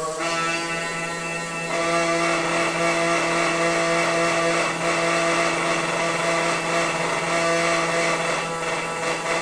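Noisy water pipe humming: a steady pitched drone of several held tones over a rushing hiss of flowing water, the tones shifting about two seconds in and one dropping out near the end.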